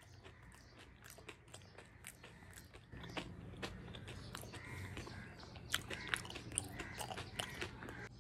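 A person chewing crunchy food close to the microphone: many small crisp crunches, getting louder and busier about three seconds in.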